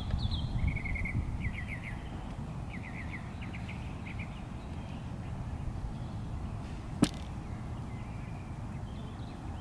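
Small birds chirping in quick trilled phrases during the first few seconds, over a steady low rumble. A single sharp click about seven seconds in.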